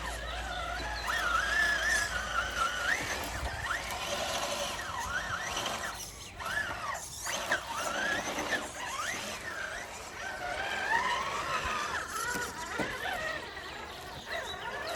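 Electric motor and drivetrain whine from 1/10 scale RC rock crawlers, rising and falling in pitch as the throttle is worked over the terrain.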